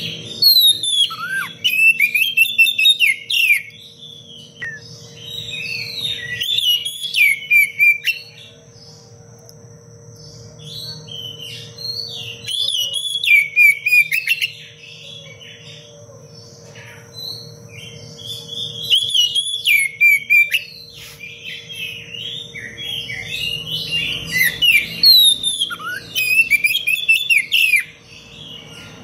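Oriental magpie-robin singing in bursts of rapid, varied phrases a few seconds long, with short pauses between. A steady high tone and a low hum run underneath.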